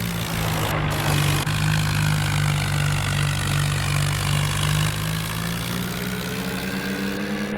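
Swaraj tractor's diesel engine running, its pitch stepping up and down a few times.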